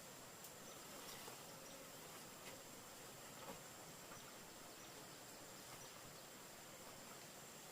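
Near silence: a faint steady hiss with a thin, high, unbroken tone and a few soft ticks.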